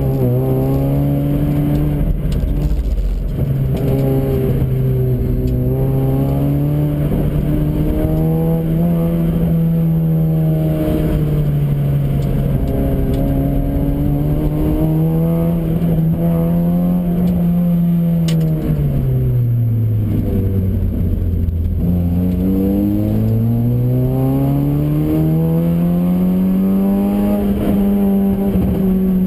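Honda Fit RS (GE8) 1.5-litre four-cylinder engine heard from inside the cabin, driven hard on a track lap, its note rising and falling through the corners. It drops to its lowest about two-thirds of the way through, then climbs steadily towards the end.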